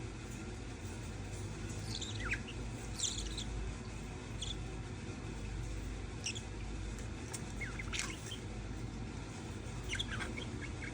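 Budgerigars chirping: short, scattered high chirps every second or two over a steady low background hum.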